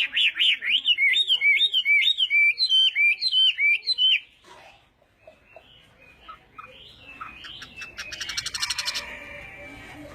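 Chinese hwamei (hoạ mi) in full song: a loud, fast run of repeated whistled notes that slur up and down for about four seconds, then quieter, varied notes and a harsh buzzy phrase near the end.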